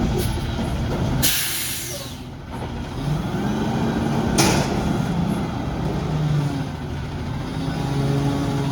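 Front-load garbage truck: a burst of air hissing out about a second in, then the engine revving up and back down with a second short air hiss midway, and the engine running on steadily.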